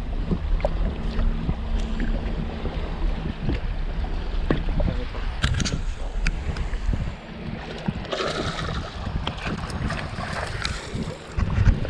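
Electric trolling motor humming steadily under wind on the microphone and water noise, with scattered knocks; the hum drops away about seven seconds in.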